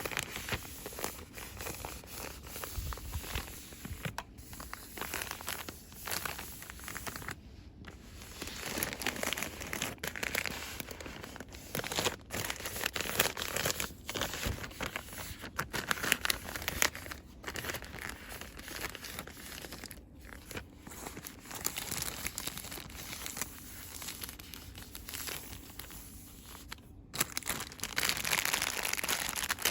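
Fast, aggressive crinkling and rustling of cosmetics packaging and plastic wrappers handled close to the microphone, with a few brief pauses.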